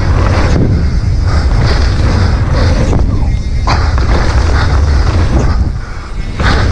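Wind rushing over an action camera's microphone, with tyre and trail noise, as a mountain bike rides down a dirt trail. The rumble is steady and loud, easing briefly near the end.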